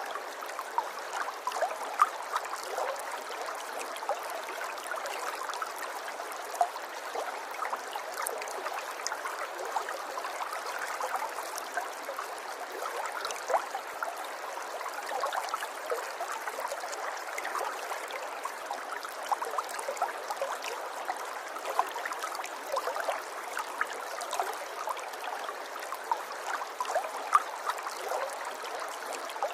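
River water flowing over stones, a steady babbling with many small irregular splashes and gurgles.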